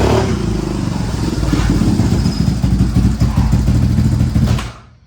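Quad (ATV) engine running loudly close by, then cutting out near the end and winding down to quiet as the quad shuts off.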